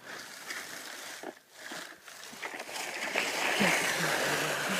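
A sled sliding over an iced-over slope, making a steady scraping hiss that grows louder about three seconds in.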